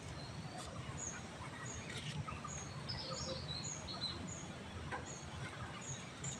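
A small bird calling with short, high chirps repeated steadily, about one every half second to second, from about a second in. A few lower twittering notes come in the middle, over a steady low background rumble.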